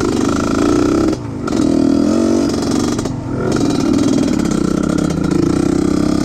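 Trail motorcycle engine revving up and down, the throttle dropping off briefly about a second in and again about three seconds in, then running more steadily.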